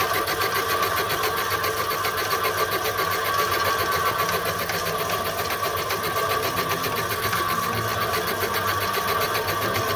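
Metal lathe running steadily under power, cutting along the workpiece in its higher gear after vibration at the lower speed, with the cut nearing the end of its travel.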